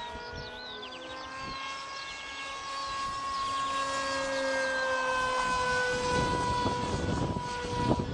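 Multiplex TwinJet RC model in flight, its single electric outrunner motor and propeller giving a steady whine. The whine drifts slightly up in pitch and then back down. From about six seconds in a rough rushing noise joins it, with a couple of thumps near the end.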